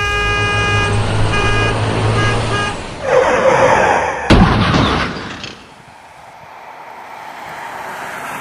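A loud horn-like blast of several steady tones over a low rumble, sounding in a few separate blasts, then a loud rushing noise with a sharp crack about four seconds in that dies down to a soft steady noise.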